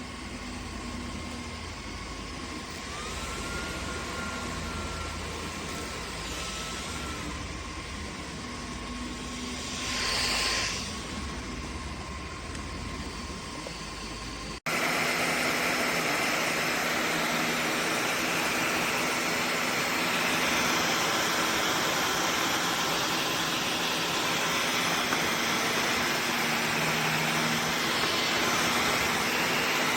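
Dyson Gen5outsize cordless stick vacuum running with a steady whine and rush of air. About halfway through the sound cuts off abruptly and comes straight back louder and hissier.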